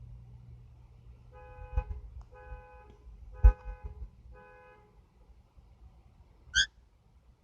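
Two-tone car horn sounding four short honks, each about half a second, with two sharp knocks among them; a brief high chirp near the end.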